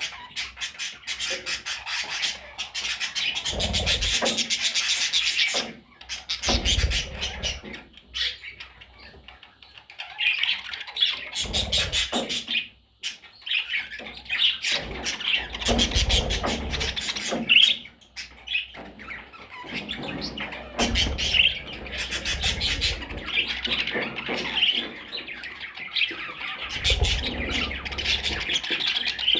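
Budgerigars chattering and chirping in a fast, continuous warble with occasional squawks. A few short low thumps come through, and the chatter breaks off briefly several times.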